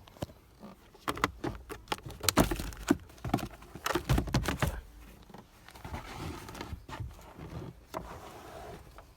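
Hands handling hard plastic parts: a quick run of clicks and knocks, then a stretch of softer rustling and scraping.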